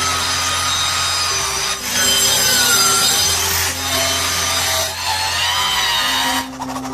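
A power tool cutting, working in stretches of one to two seconds with short breaks, its whine shifting in pitch as it bites. Low background music plays underneath.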